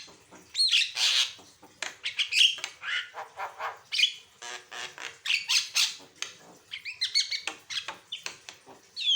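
Javan myna (jalak kebo) singing a varied, fast run of whistled glides, harsh squawking notes and sharp clicks, with only brief pauses between phrases.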